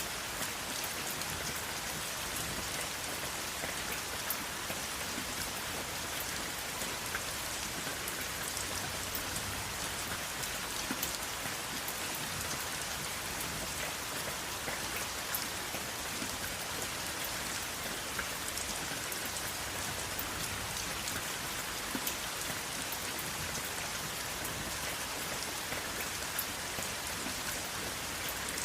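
Steady rain falling, an even hiss with scattered sharper drop ticks, no thunder.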